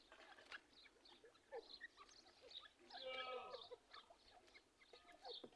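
A pair of teetar (francolin partridges) calling softly: scattered short chirps, with one longer, louder call about three seconds in.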